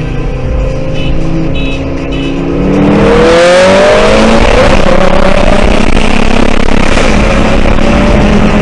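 Audi RS3's turbocharged five-cylinder engine heard from inside the car, running at part throttle and then, about three seconds in, going to full throttle for a 30 mph roll race. It gets much louder, with its pitch climbing as it pulls and strong wind and road noise.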